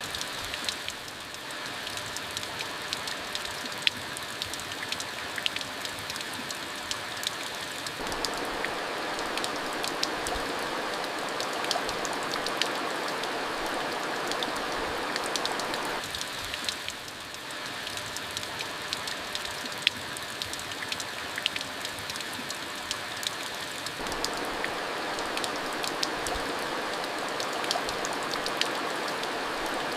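Steady rain falling, an even hiss with scattered sharp drops tapping close by. The rain noise dips and swells slightly every eight seconds or so.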